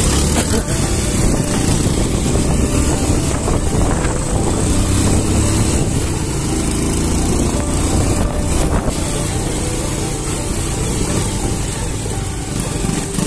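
Motorcycle engine running steadily while riding, with a heavy low rumble.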